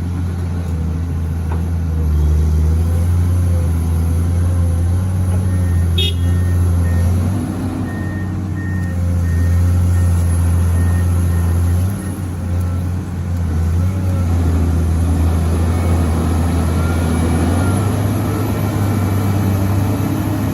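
Heavy diesel truck engine running hard and steady under load during a pull to free a truck bogged in mud, dipping briefly about twelve seconds in.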